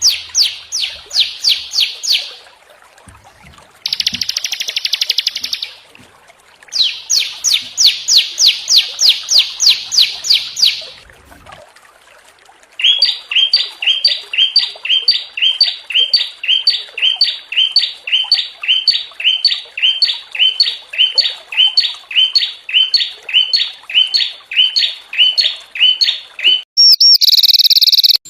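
Small songbirds singing harsh, rapid bursts of song of the kind used as bird-training ('masteran') recordings. Several short, fast trills come first, then a long run of evenly repeated high chirps, about two a second, with a different loud call near the end.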